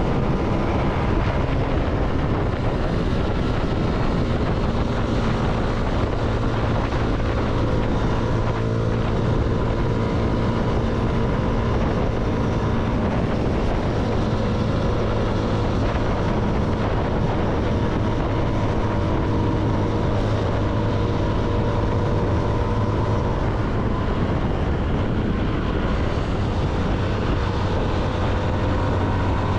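CFMoto motorcycle engine running at a steady cruising pitch, with wind noise on the microphone.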